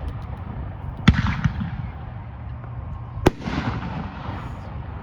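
Consumer aerial fireworks bursting overhead: two sharp bangs about two seconds apart, each followed by a short crackling, rumbling tail.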